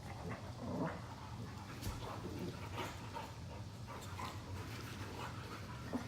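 Two Boxer dogs play-fighting: irregular short dog noises and scuffles, loudest just before a second in, over a low steady hum.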